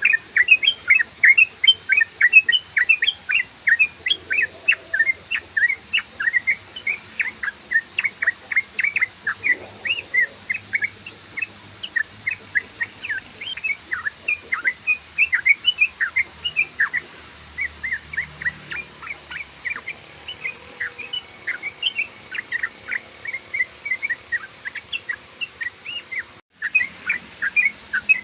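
Sooty-headed bulbul (trucukan) singing a long, rapid run of short chirping notes, about four or five a second, with a momentary break near the end.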